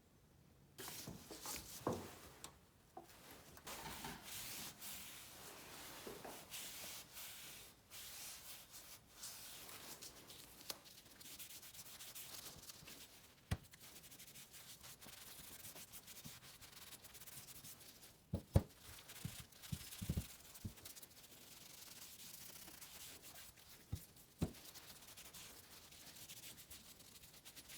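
Hand sanding: irregular rubbing strokes of abrasive paper on the workpiece, with a few short knocks in the second half as the piece is handled.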